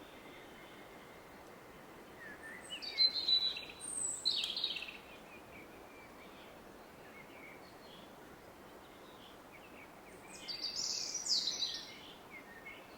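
Two short bursts of woodland bird song, one a couple of seconds in and one near the end, over the steady rush of a distant river.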